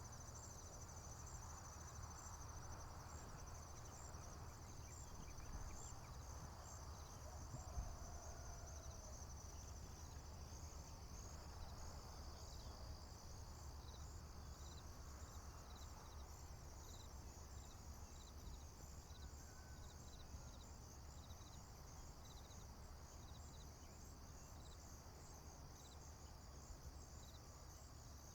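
Crickets chirping in a continuous high, pulsing chorus, with a slower repeating chirp beneath it, over a faint low rumble. A single soft knock about eight seconds in.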